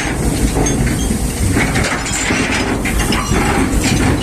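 Steady engine rumble with irregular knocking and crunching clatter, like crates or loose gear being handled on a working boat.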